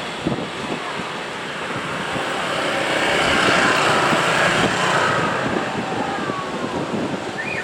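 Train passing on the line: a loud, noisy rush with many short knocks that swells to its loudest about halfway through and then eases off. A faint falling tone sounds in the second half.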